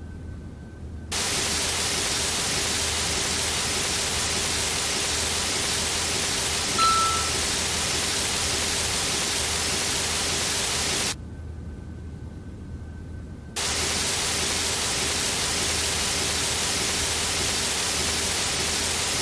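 Carwash sound effect: a steady, loud hiss that starts about a second in, cuts out for about two and a half seconds past the middle, then starts again. A short, bright ding sounds once, about seven seconds in.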